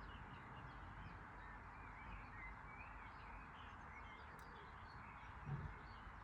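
Near-silent background: a steady hiss with faint, high chirping throughout, and one soft low thump about five and a half seconds in.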